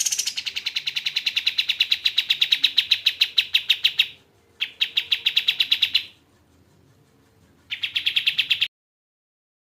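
Sooty-headed bulbul (burung kapas tembak) calling in fast trills of evenly repeated notes, about ten a second. A run of about four seconds is followed by a shorter one and then a brief one that cuts off suddenly.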